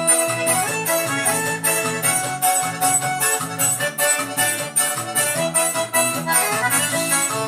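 Electronic keyboard playing a festa junina instrumental: an accordion-voiced melody with chords over bass and a steady drum-machine beat.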